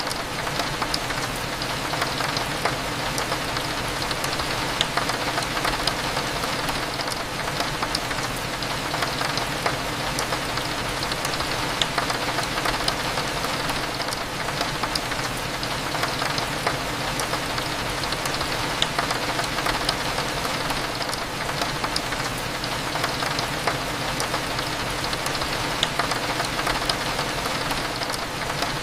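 Steady rain hitting a window, dotted with many small sharp drop ticks, over a low steady hum.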